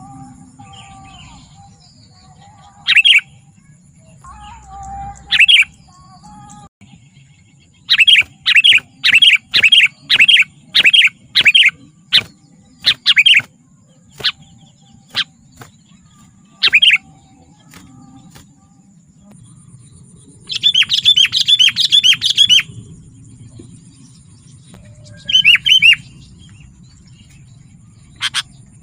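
Sooty-headed bulbul (kutilang) calling. Loud, short, clear notes come singly at first, then in a quick run of about a dozen notes, and about two-thirds of the way in there is a fast chattering burst lasting about two seconds.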